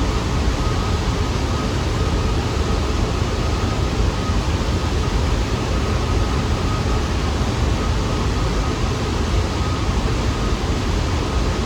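New York City subway train running, a steady loud rumble and hiss with a faint constant whine above it.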